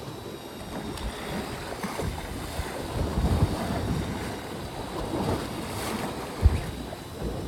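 Wind buffeting the microphone on a fishing boat, with water washing around the hull, and a single sharp thump about six and a half seconds in.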